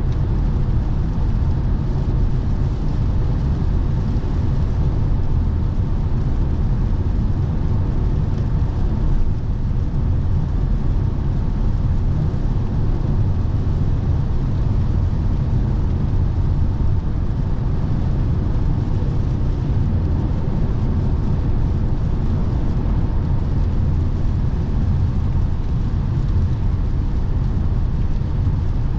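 Lexus NX 300h hybrid SUV driving at speed on a motorway: a steady, even rumble of tyre and wind noise with no changes or distinct events.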